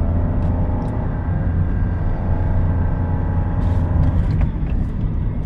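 Daihatsu Rocky 1.2 manual's three-cylinder engine pulling uphill under load, with a steady low road rumble inside the cabin. About two-thirds of the way in, the engine note drops away as the clutch goes in for a gear change.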